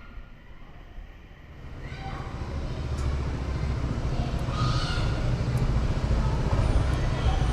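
Honda 125 cc motorcycle riding, getting louder about two seconds in as it picks up speed, then a steady low rumble of engine and wind on the camera.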